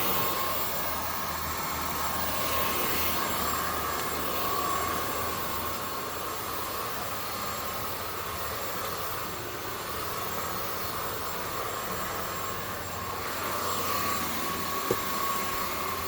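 Zoker A10 Pro cordless stick vacuum running on its highest power setting: a steady motor whine with a rush of air, without high-pitched squeals. A brief click sounds near the end.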